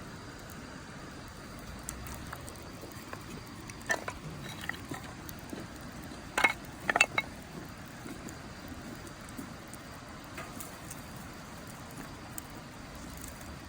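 Wood fire burning in a fire pit, crackling with scattered sharp pops over a steady hiss; a cluster of the loudest pops comes about six to seven seconds in.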